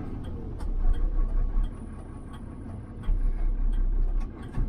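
DAF 18-tonne recovery truck's diesel engine pulling away, heard from inside the cab, with a low rumble that swells twice as the truck accelerates.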